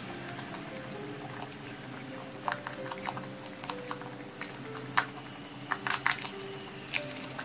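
Close-up chewing of sweet and sour pork ribs, with a string of crisp crunches as the rib cartilage is bitten through, starting about two and a half seconds in and clustering near the end. Soft background music plays underneath.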